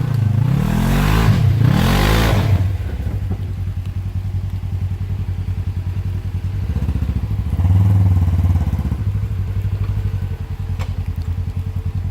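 Polaris RZR side-by-side's engine revving up and down with a loud rush of noise for the first couple of seconds, then running steadily at a low throbbing idle that picks up slightly about eight seconds in.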